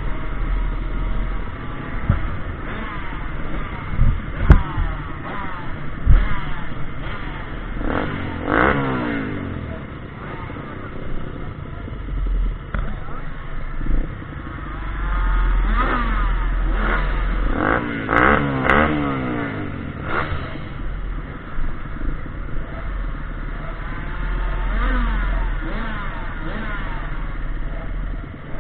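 Small off-road pit bike engines revving up and falling back again and again as the throttle is worked, with a steady low rumble and a few clattering knocks.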